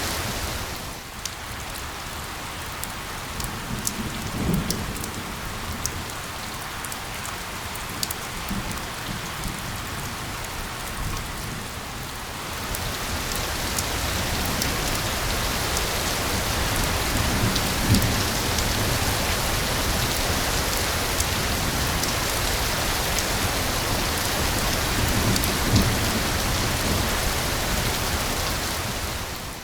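Steady rain falling on a surface, a constant hiss with individual drops ticking sharply through it. It grows heavier about twelve seconds in, and a few soft low rumbles sound now and then.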